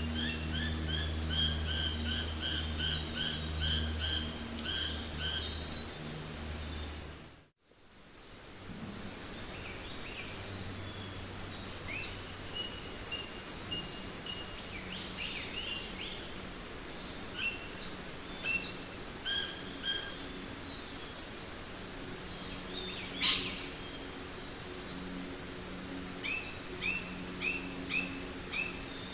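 Forest ambience of several birds chirping and calling in quick repeated notes over a steady background hiss. A low steady hum runs under the first seven seconds and stops at a brief drop-out.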